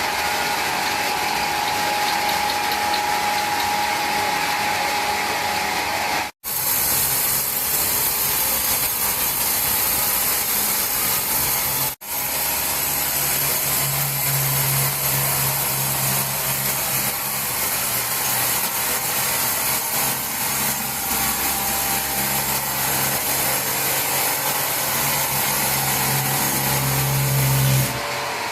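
Power sawing machinery cutting wood, a continuous loud rasping noise that drops out abruptly twice. From about halfway a steady low motor hum joins it and grows stronger until it stops just before the end.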